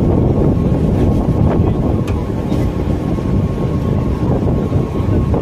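Mumbai suburban local (EMU) train running at speed: the rumble of wheels on the rails with wind buffeting the microphone at the open doorway, a faint steady whine and a few light ticks over the top.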